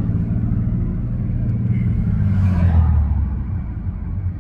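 Ford Mustang's engine and road noise heard from inside the cabin while driving, a steady low drone whose note drops a little about three seconds in.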